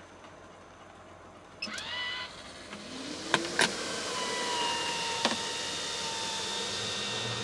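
A small electric motor starts about a second and a half in with a rising whine, then runs with a steady whine. Two sharp clicks come near the middle and another a couple of seconds later, and a low hum joins near the end.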